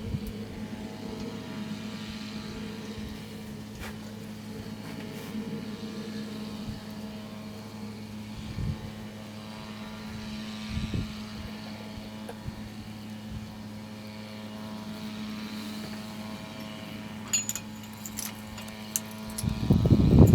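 Ural M-62 motorcycle's K-750M flat-twin engine running steadily at idle. There are a few low thumps partway through and a louder run of low thumps near the end.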